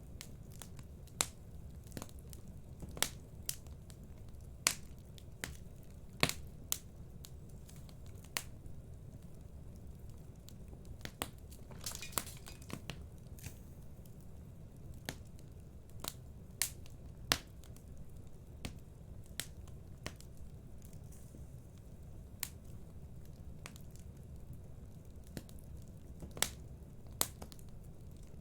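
Fire in a fireplace crackling, with irregular sharp pops over a low steady rumble and a brief hiss about twelve seconds in.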